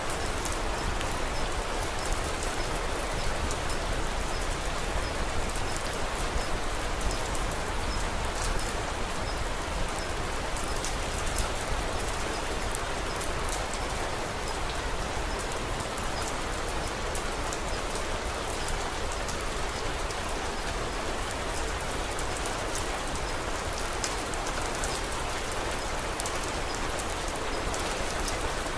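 Steady rain falling, a dense even hiss, with scattered small sharp crackles of a wood fire mixed in.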